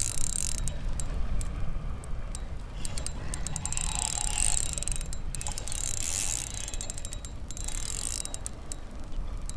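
Fishing reel clicking and ratcheting in rapid runs while a small bass is fought in on the line, over a steady low rumble.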